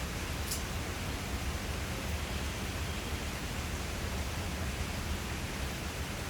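Steady rain falling, an even hiss without thunder, with one brief high-pitched tick about half a second in.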